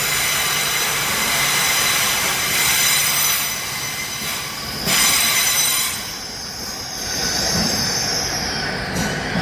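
Passenger train running on the rails with a steady rush of rolling noise and high-pitched wheel squeal. A brief louder burst comes about five seconds in, and after it the squeal wavers up and down in pitch.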